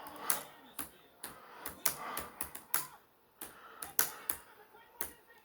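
Typing on a computer keyboard: irregular key clicks, several a second, with short pauses between bursts.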